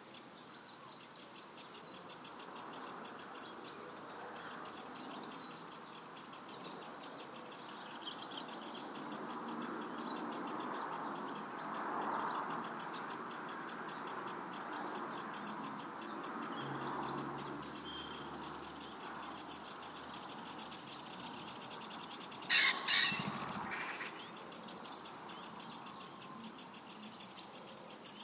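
Birds singing: a fast, steady, high-pitched twitter repeating several times a second, with two short, loud calls about three-quarters of the way through.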